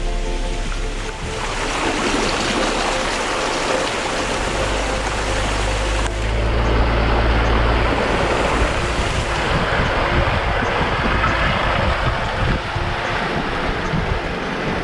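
Jeep driving along a wet off-road trail in the rain: a low engine drone under a steady rushing noise of tyres and rain, which swells about six seconds in.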